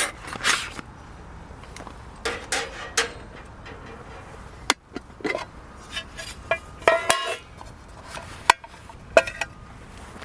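Metal camp cookware being handled: a series of separate clinks and knocks, some with a short metallic ring.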